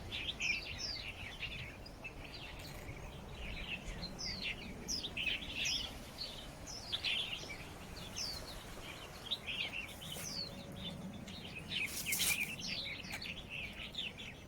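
Small birds singing and chirping: a dense run of short, high chirps, many of them falling in pitch, following one another without a break.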